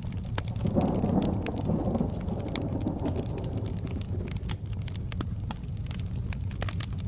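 A roll of thunder swells about a second in and fades over the next few seconds, over a steady low rumble of rain and the scattered sharp snaps of a crackling fireplace.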